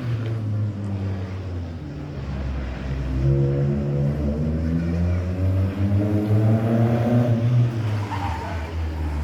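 Rally car engine revving, its pitch rising and falling twice over a deep rumble.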